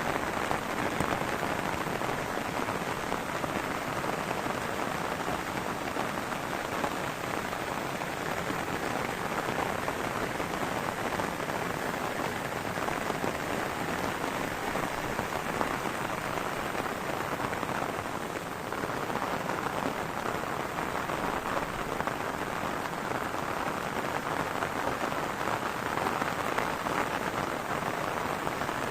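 Heavy rain falling steadily, a dense, even patter that hardly changes.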